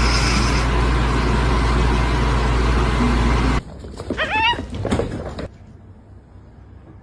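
A steady low rumble and hiss that cuts off suddenly a little over halfway through, followed by a short cat meow that bends up and down in pitch.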